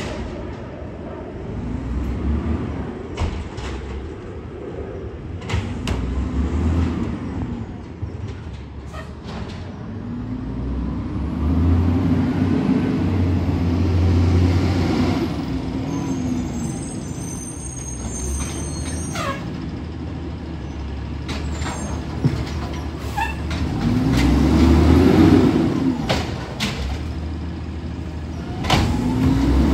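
Diesel garbage truck engine revving up and falling back several times, with short air-brake hisses and a high squeal about halfway through.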